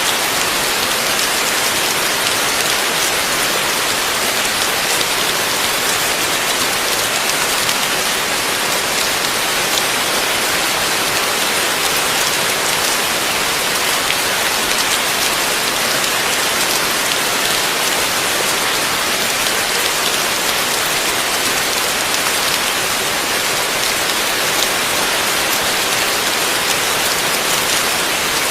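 Heavy rain falling steadily: a dense, even hiss of countless drops, without thunder.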